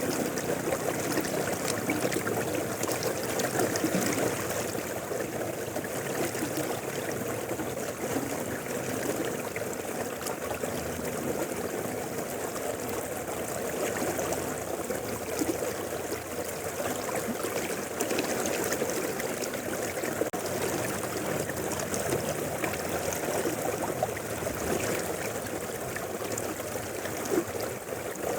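Mountain river flowing steadily over stones, a continuous rush with fine trickling and gurgling.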